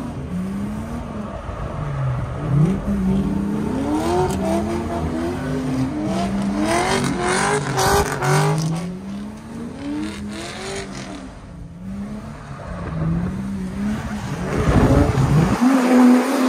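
Drift car engines revving up and down again and again, their pitch climbing and dropping as the cars are driven hard around the track.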